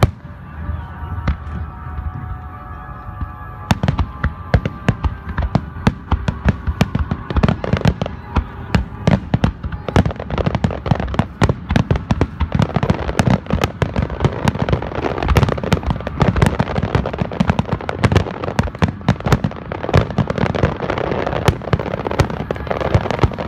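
Aerial fireworks shells bursting, first as scattered single bangs, then from about four seconds in as a dense, rapid barrage of bangs and crackling as many shells go off together.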